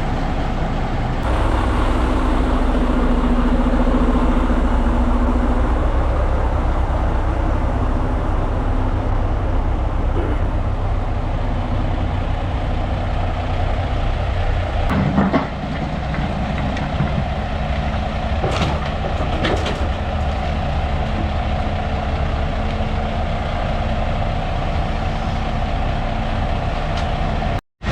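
A heavy dump truck's diesel engine running steadily, with a knock about halfway through.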